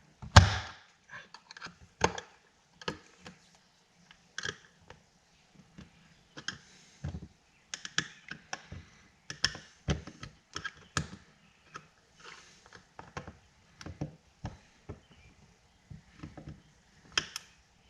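Irregular clicks and knocks of small metal parts being handled and pressed together while a wave washer is worked onto a vent window's handle shaft, a tight fit. The loudest knocks come just after the start and near the end.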